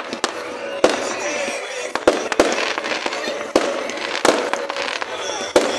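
Fireworks display: sharp bangs of shells bursting at irregular intervals, roughly one a second, over continuous crackling.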